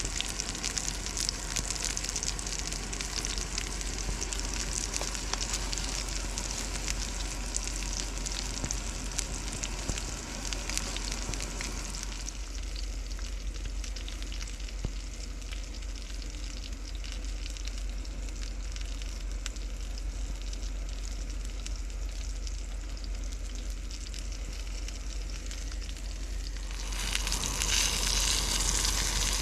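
Food frying and sizzling over a campfire: a steady crackling hiss. It drops quieter about twelve seconds in and comes back louder near the end.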